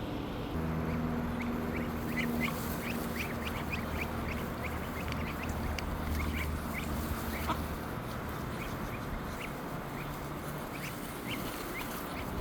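Ducks and ducklings calling: a long run of short, high peeps, over a steady low hum that stops near the end.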